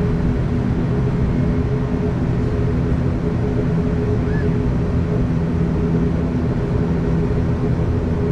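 Turboprop engines and propellers of an ATR 42-500, heard from inside the cabin, running steadily at low power ahead of takeoff. They make an even drone of several steady low tones over a rumble.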